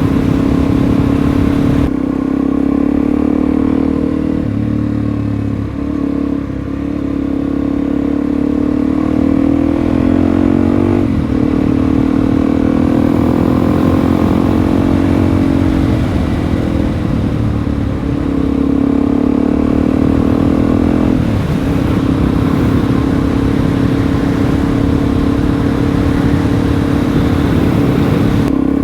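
Suzuki DR-Z400E single-cylinder four-stroke trail bike engine running under way. Its pitch climbs under throttle and drops off sharply several times as it shifts gear or eases off.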